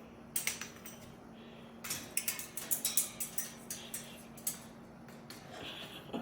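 Cockatoo chewing and cracking a perch with its beak: irregular sharp clicks and crunches, coming in a quick cluster around the second and third seconds.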